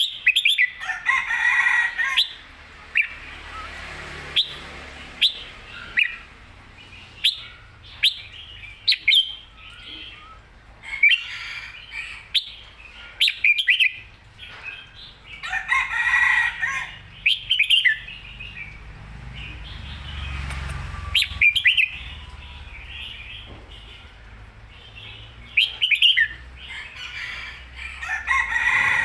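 Red-whiskered bulbul singing in short, bright phrases repeated every few seconds, with sharp clicks in between and a steady low hum underneath.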